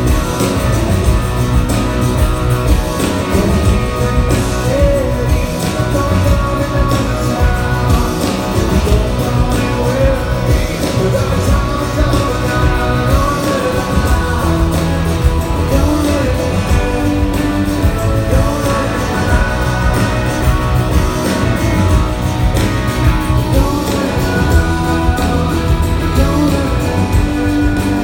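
Live rock band playing, with electric guitars, a steady beat and a singing voice carrying the melody.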